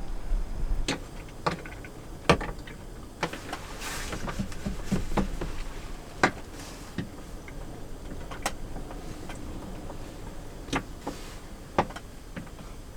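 Scattered light clicks and knocks of small objects being handled inside a car, about a dozen spread irregularly. A low wind rumble is heard in the first second or so.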